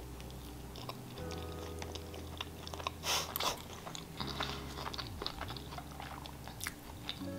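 A person chewing a mouthful of quesadilla close to the microphone, with small wet mouth clicks and one louder noisy burst about three seconds in. Quiet background music of held chords, changing every few seconds, runs underneath.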